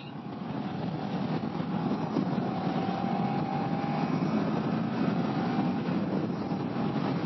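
Kawasaki ER-6f parallel-twin motorcycle on the move: steady rush of wind and road noise over the engine, with a faint whine that rises slightly about two seconds in.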